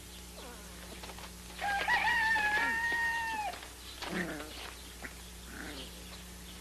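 A rooster crowing once: a long, held call of about two seconds that drops in pitch at the end, with a few fainter short sounds before and after.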